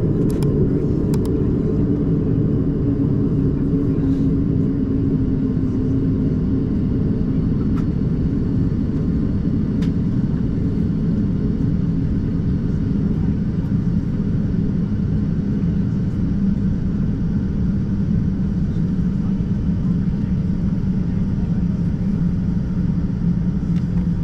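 Steady low rumble inside the cabin of an Embraer 190-E2 airliner on the ground before takeoff, its engines and air system running. A low hum slowly shifts in pitch, with a few faint clicks in the first seconds and near the middle.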